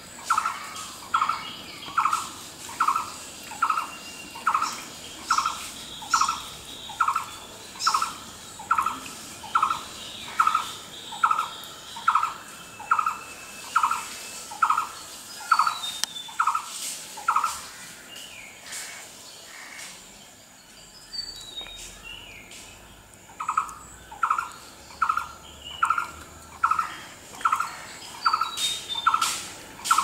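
A bird repeats one short, hollow-sounding note in a steady, monotonous rhythm, roughly two notes a second. It breaks off for about six seconds past the middle, then starts again. Fainter chirps of other small birds sound behind it.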